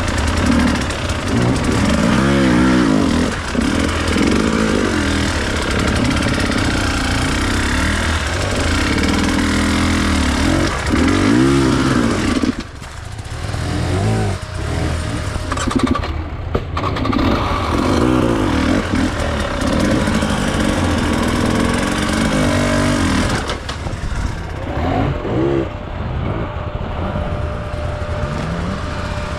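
Enduro dirt bike engine revving up and down again and again as it is ridden, with a brief drop-off about twelve seconds in before the revs pick up again.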